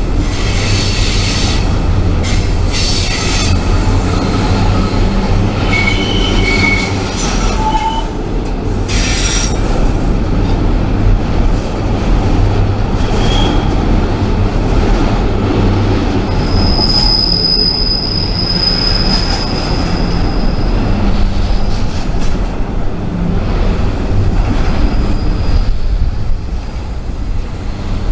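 Freight train rolling past with a steady low rumble, its wheels squealing in short high-pitched bursts, with one longer squeal about two-thirds of the way through.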